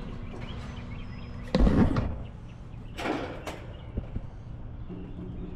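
A heavy metallic thump about a second and a half in, then a lighter knock about a second later, as the condenser fan motor is handled during a bearing check.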